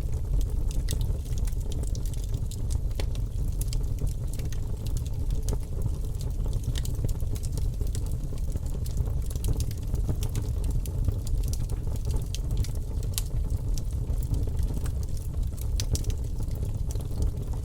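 Campfire of burning wood crackling, with frequent sharp irregular pops over a steady low rumble of the flames.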